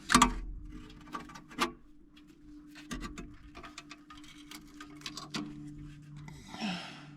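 Steel tie wire being wrapped around an RV generator's muffler, a run of irregular clicks and small scrapes of wire on metal, the sharpest click right at the start.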